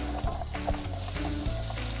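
Cucumber and egg stir-frying in a pan, a steady sizzle with short taps from stirring.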